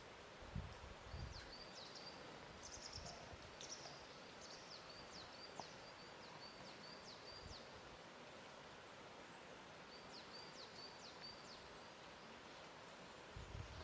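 Faint, gentle lake water lapping at the shore, with soft low splashes now and then. Over it a small bird gives repeated short, thin, high chirps, pausing midway and starting again.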